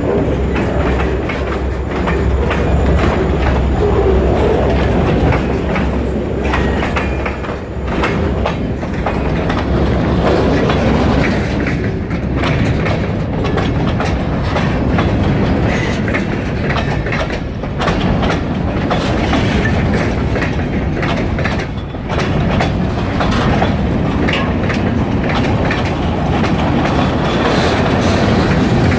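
Freight train rolling past, its wheels clattering over rail joints in a continuous clickety-clack.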